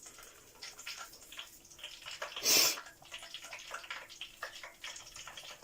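Dough-wrapped sausages deep-frying in hot oil, a steady crackling sizzle with a sharper, louder hiss about two and a half seconds in.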